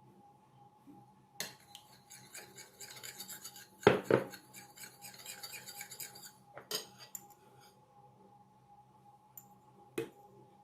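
Cookware and kitchen utensils clattering for a few seconds, with two loud knocks in the middle, then a single knock near the end.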